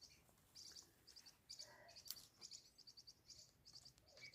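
Faint bird chirping: quick series of short, high chirps repeated again and again, with one sharp click about two seconds in.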